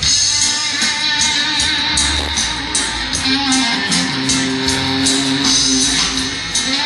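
Live reggae band playing an instrumental passage: strummed electric guitar chords over bass, in a steady, even rhythm.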